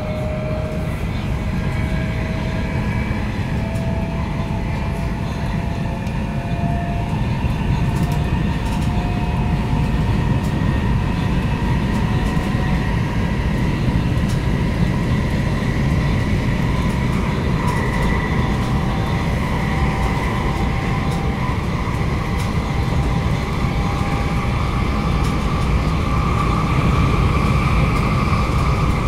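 Inside an HSL Sm5 Stadler Flirt electric commuter train running at about 90 km/h and gaining speed: a steady low rumble of wheels on rails, with the electric drive's whine rising slowly in pitch. A few faint clicks sound over it.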